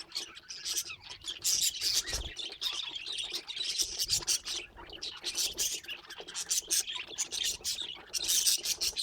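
Budgerigars chattering and chirping: a dense run of short, high chirps and clicks.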